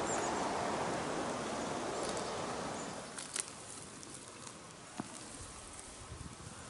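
Outdoor woodland ambience: a steady rushing noise that drops away about three seconds in, then quieter footsteps through grass and brush with a few light snaps and rustles.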